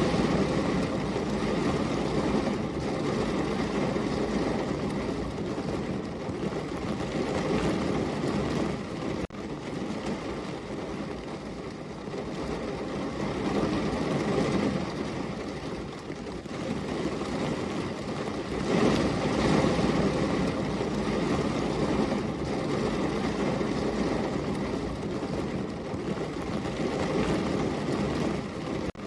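Steady rain falling, a continuous hiss that swells and eases every few seconds, with a brief dip about nine seconds in.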